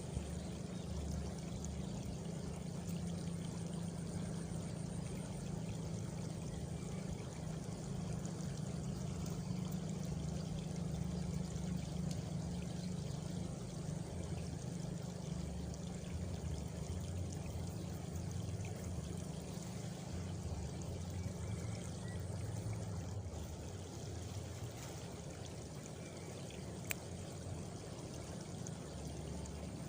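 Water flowing steadily, as in a stream or channel, an even rushing with a low rumble, and one sharp click near the end.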